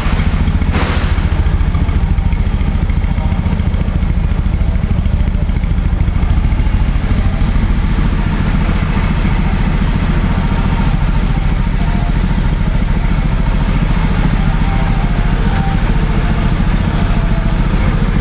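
2007 Triumph Bonneville T100's 865 cc air-cooled parallel-twin engine running steadily at idle.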